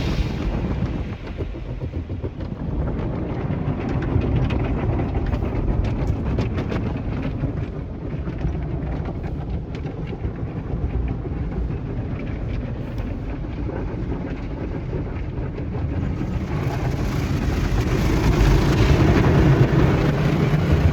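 Steady low rumble of a car on the move, growing louder about four seconds before the end.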